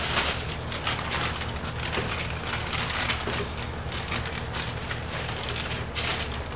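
Damp firework star composition being rubbed through a mesh screen by hand: a continuous gritty scraping and crackling.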